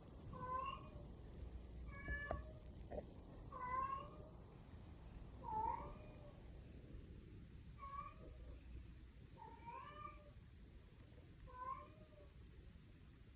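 Domestic cat meowing over and over, about seven short, bending calls roughly every two seconds: complaining meows as it follows its owner.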